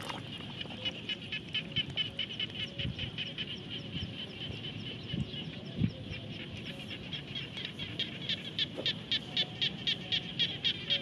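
A bird chirps rapidly, a steady run of short high chirps, about four or five a second, that grows louder toward the end. A dull low knock comes a little past halfway.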